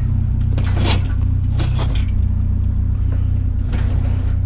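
Vehicle engine idling steadily with a low hum, with a few short knocks and scrapes over it about a second in, near two seconds, and late on.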